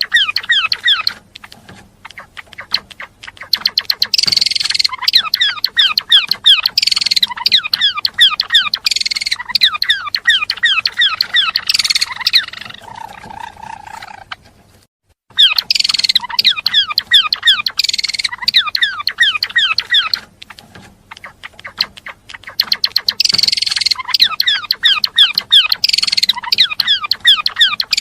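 Gelatik belong songbird singing: long bursts of fast, high, down-slurred chirps, broken by short quieter pauses and one brief silence about halfway through.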